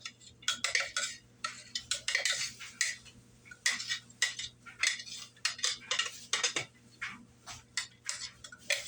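Irregular clattering and clinking of kitchen utensils and dishes, with sharp knocks coming one or two a second.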